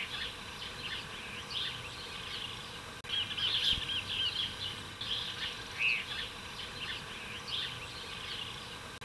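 Songbirds chirping and singing: scattered short calls and runs of quick rising-and-falling notes, the busiest run about three seconds in, over a faint steady background hiss.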